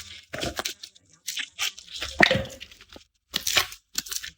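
Papery garlic skins being peeled off cloves by hand, in a run of short crisp tearing and crackling strokes, the loudest a little past two seconds in.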